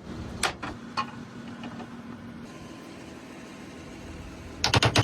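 A few sharp clicks, then near the end a quick run of loud mechanical clicks and knocks over a faint steady hum.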